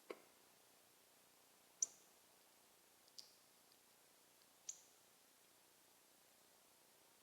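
Northern cardinal giving short, sharp, high chip calls: three chips spaced about a second and a half apart, over near silence. A short low click comes right at the start.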